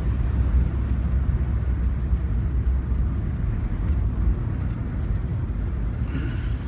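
A car's engine and road noise heard from inside the cabin while driving: a steady low rumble.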